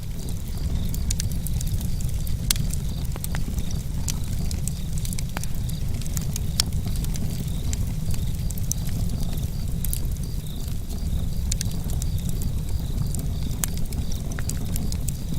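Campfire burning, a steady low rumble of flames with many irregular sharp crackles and pops.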